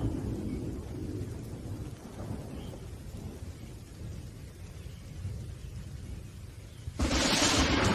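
Thunderstorm: low rolling thunder rumbling over steady rain, then a sudden sharp thunderclap crack about seven seconds in.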